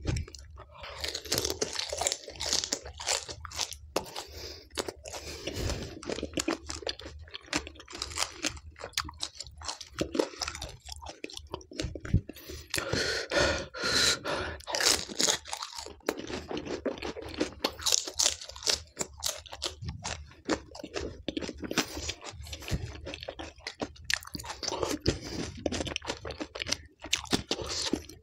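Close-miked crunching and chewing as a person eats crisp pani puri shells with whole raw green chillies, an irregular run of crackly bites and wet chewing.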